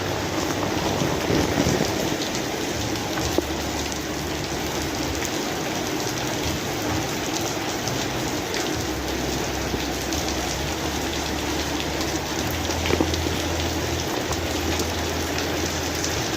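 Steady rain falling, a dense even hiss with many individual drops tapping, a couple a little louder.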